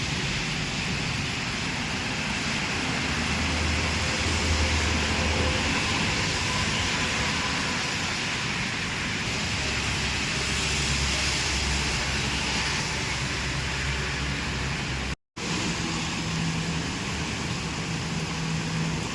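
Steady hiss of rain falling, with a low rumble underneath. The sound drops out completely for a moment about fifteen seconds in.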